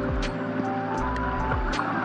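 Lofi background music: sustained chords over a slow, steady beat of soft kick drum and hi-hat ticks.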